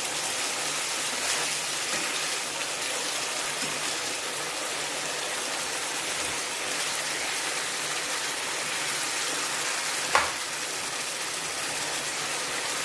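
Boneless chicken cubes sizzling in their own juices and spice masala in a nonstick frying pan, a steady hiss as the liquid is cooked down. One sharp knock about ten seconds in.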